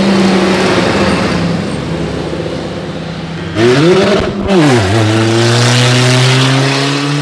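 Loud car engine revving hard: it runs high, blips sharply up and back down about halfway through, then holds at high revs that slowly climb.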